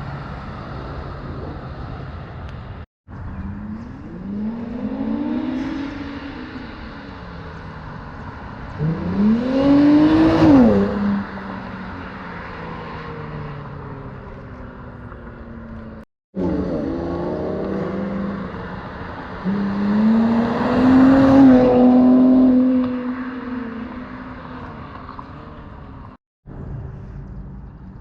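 Infiniti Q50 Red Sport 400's twin-turbo V6, breathing through a Motordyne exhaust and AMS lower downpipes, revving up and falling back several times across short clips cut together. The loudest runs of revs come about ten seconds in and again about twenty seconds in.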